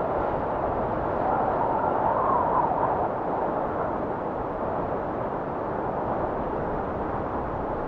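Strong blizzard wind blowing steadily as a dull rushing noise, with a faint whistling gust that rises and falls in pitch a couple of seconds in.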